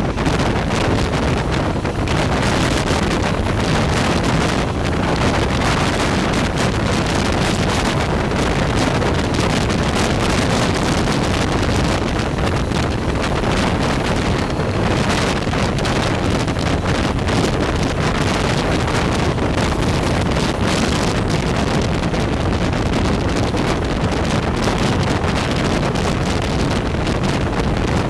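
Steady, loud rushing noise of a passenger train running at speed, heard from on board, with wind buffeting the microphone.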